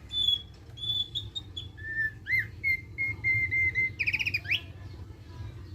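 Thick-billed heleia singing its chattering 'ngeriwik' song. It opens with a few clear whistled notes, then gives a run of short repeated notes, and about four seconds in a fast trill that ends in a rising sweep.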